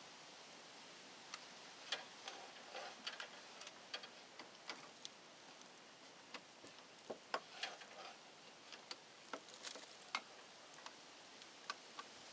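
Scattered light clicks and ticks at an uneven pace, small hard parts and hand tools being handled during electrical wiring work, over a faint steady hiss.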